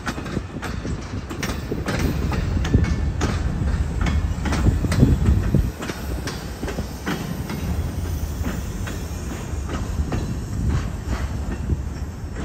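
Train cars rolling past on jointed track: steel wheels clacking over the rail joints over a steady low rumble, from MARC bilevel passenger coaches and a covered hopper being hauled in a freight train. Loudest between about two and five seconds in.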